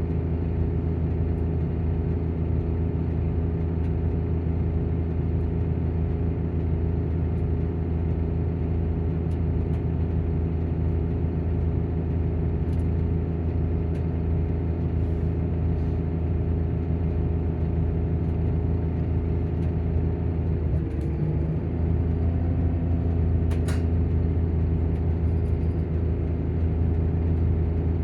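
Volvo coach engine idling with its engine cooling fan running: a steady low hum with several tones. A little past two-thirds through, the pitch dips and wavers, then settles on a slightly different note, and a short click follows soon after.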